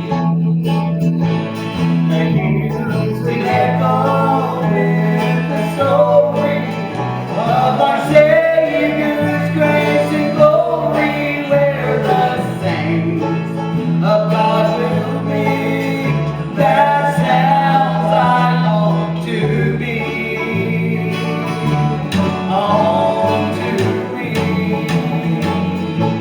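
Bluegrass band playing a country song, with guitar, banjo, a walking bass line and singing.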